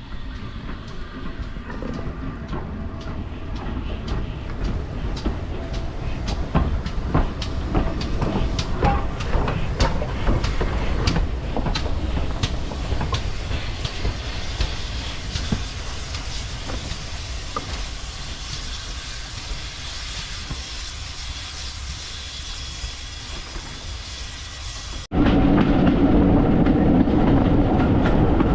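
A train running along the track, with a steady rumble and repeated clicks of wheels passing over rail joints. About 25 seconds in, the sound cuts abruptly to a louder train noise.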